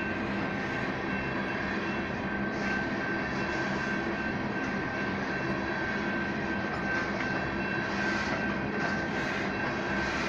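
Freight train of oil tank cars rolling past, a steady rumble of wheels on rail with a thin, steady high-pitched ring running through it.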